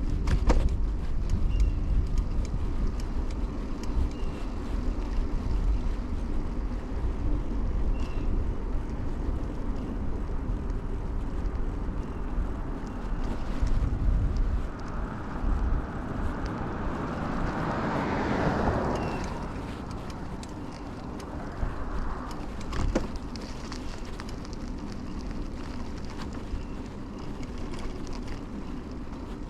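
Riding a 2000 Kona Blast mountain bike: steady wind rumble on the chest-mounted camera with road noise from the ride. A vehicle passes about eighteen seconds in, its sound swelling and then fading.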